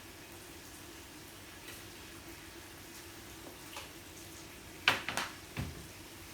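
Utensils clicking against dishes: a quick clatter of sharp clicks about five seconds in, then a duller knock, over a faint steady hum.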